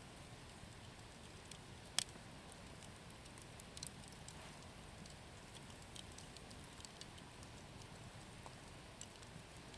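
Wood bonfire crackling: scattered faint ticks and one sharp pop about two seconds in.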